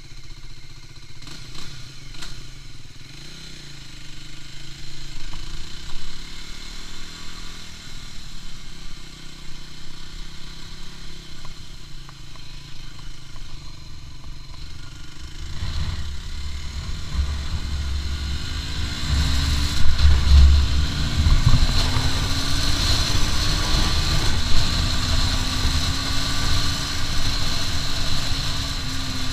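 Aprilia RS4 125's single-cylinder four-stroke engine accelerating through the gears, its pitch climbing and dropping with each shift. From about halfway the speed builds, and heavy wind buffeting on the microphone comes in under a long, slowly rising engine note.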